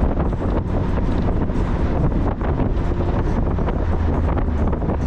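Wind buffeting the microphone of a moving Mazda Miata, over the car's steady low engine and road hum.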